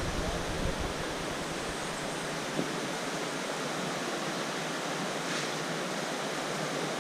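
Steady rush of flowing water, an even hiss with no rhythm. A low rumble sits under it in the first second or two, and there is a faint knock about two and a half seconds in.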